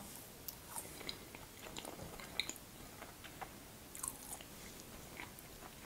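Close-miked chewing of a soft homemade waffle with jam: faint, irregular small mouth clicks.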